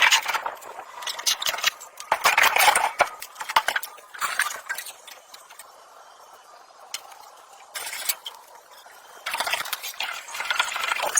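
Metal tools and parts clinking and scraping in irregular bursts, with a quieter stretch in the middle and a louder run of scraping near the end.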